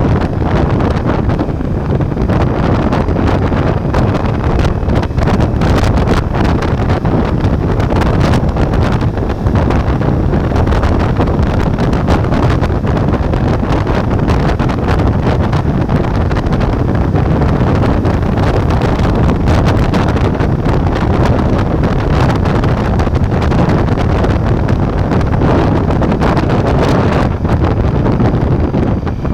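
Heavy wind noise buffeting the microphone over the running V4 engine of a Ducati Multistrada V4 on the move.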